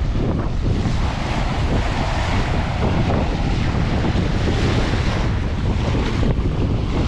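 Wind buffeting the microphone with heavy low rumble, over the steady wash of surf breaking on a beach.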